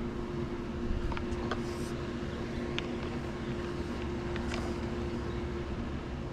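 Swimming pool filter pump running steadily with a low hum, drawing through the vacuum hose, with a few light clicks over it.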